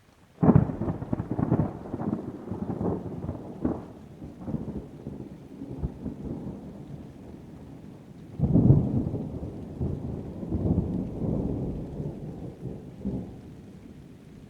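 Thunder over rain: a sudden loud crack about half a second in that rumbles and dies away, then a second rolling peal about eight seconds in that slowly fades.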